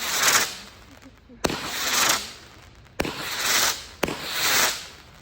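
Phantom Raptor 19-shot firework cake firing in sequence. Three sharp launch thumps come about a second to a second and a half apart, and each is followed by a hiss that swells and fades over most of a second as the effect flies.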